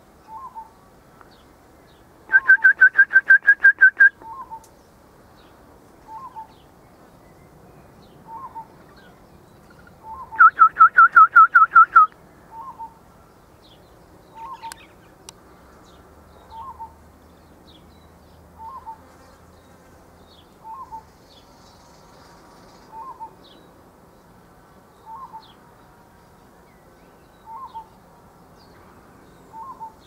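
Two loud, fast rolling trills from a bird that the recordist takes for a grey cuckoo-shrike, with a smaller bird giving a short note about every two seconds throughout.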